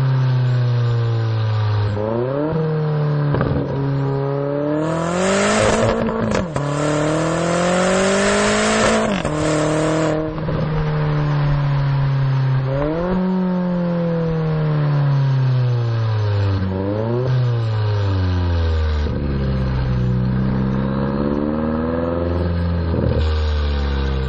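BMW X5M/X6M twin-turbo V8 through an Eisenmann aftermarket exhaust, revving up repeatedly under acceleration with the pitch dropping sharply at each gearshift. The loudest stretch, about five to ten seconds in, is the exhaust at high revs under hard throttle; near the end the revs fall lower and waver.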